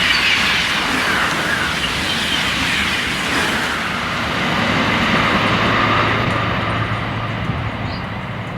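High-speed TGV train running through the station at speed: a dense rush of air and rail noise with faint falling whines in the first second or so, slowly fading as the train draws away.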